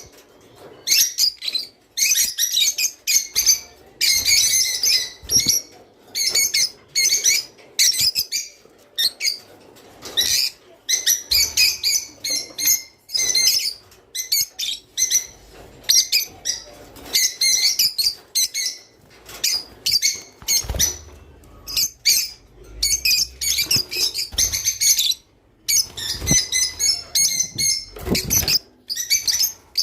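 A flock of lovebirds chirping and calling rapidly, in bursts of shrill chirps with short pauses between them. This is the calling that breeders play back to stimulate their birds to mate.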